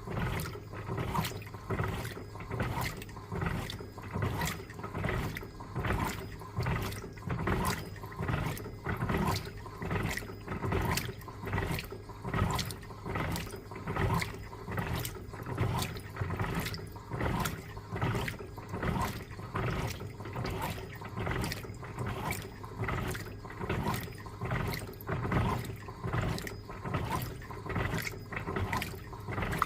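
Electrolux LTA15 washing machine in its wash agitation, churning a load of bed linen in water. The water sloshes in a steady, evenly repeating back-and-forth rhythm of a little over one stroke a second.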